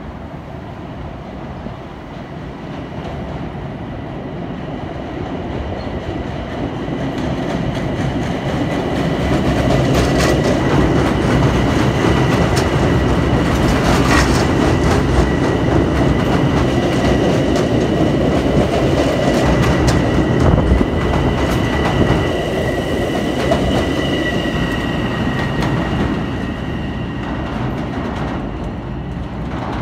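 A Long Island Rail Road electric train approaches, runs past along the platform and draws away. Its wheels on the rails build to a loud rumble, hold through the middle and fade near the end, with a steady high whine and a couple of sharp clacks from the wheels over rail joints.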